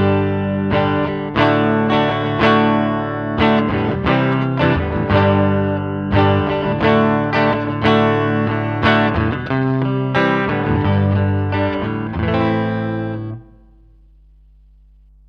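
Electric guitar, a Fender Stratocaster played through a Line 6 Helix amp-and-cab model, picking a run of chords and notes about twice a second. The last chord rings and is cut off suddenly near the end, leaving a faint low hum.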